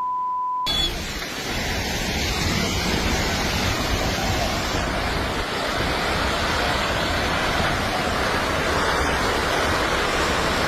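A steady one-pitch bleep for about the first second, then a landslide's continuous rushing roar, intense and like a raging river.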